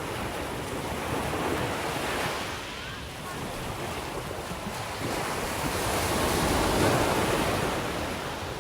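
Sea waves washing onto the shore: a smaller swell about two seconds in and a louder one building to a peak near the end before easing off.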